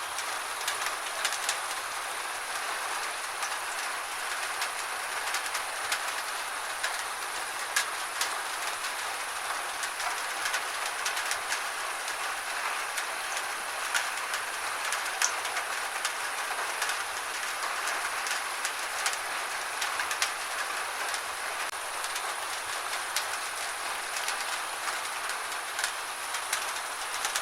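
Steady gentle rain: an even hiss with many scattered sharp drips.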